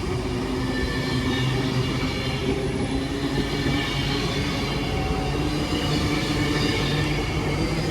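Train running through the station: a steady mechanical hum with several held tones that shift slightly in pitch.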